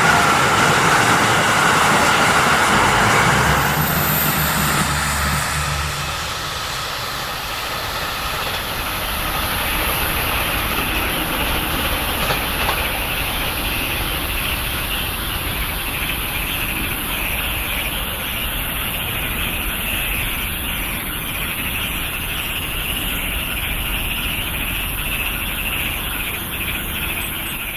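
Train rumbling past and fading away over the first six seconds or so, then a steady, dense chorus of frogs calling.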